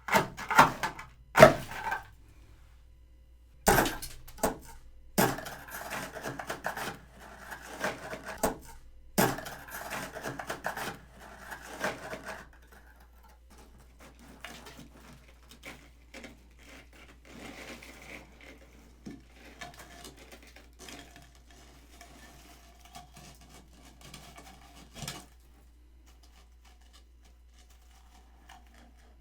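Frost being dug and scraped out of the bottom of a freezer with a utensil: sharp knocks and scraping for the first dozen seconds or so, then softer crunching and rustling of the frost, with one last knock near the end.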